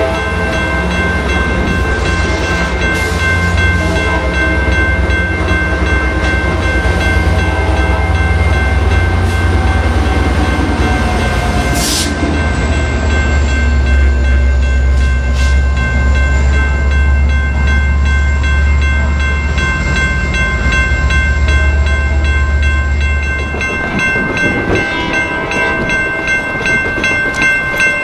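Amtrak Pacific Surfliner departing, its F59PHI diesel-electric locomotive shoving on the rear: a loud, steady low engine rumble with rail noise as the train pulls away, and one sharp click about halfway through. The rumble ends suddenly near the end, where a quicker, regular beating sound takes over.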